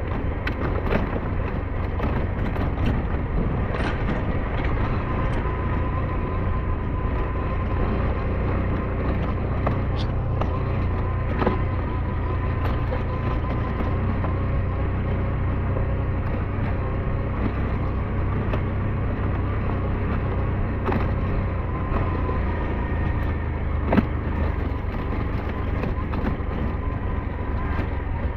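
SYM NH T 200 motorcycle running steadily while riding along a mountain forest road, its engine under a heavy low rumble, with a few sharp knocks along the way.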